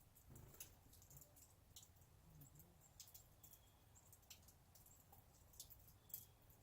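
Near silence broken by faint, scattered high ticks and a few brief high chirps from small birds.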